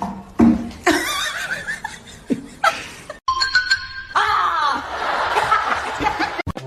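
Laughter over background music, with a clip change partway through.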